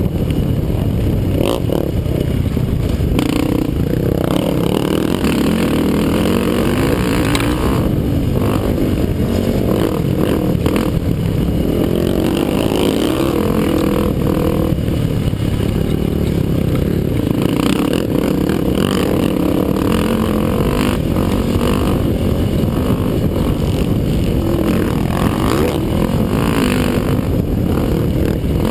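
ATV (quad) engine running hard in a motocross race, loud and unbroken, with scattered clattering knocks.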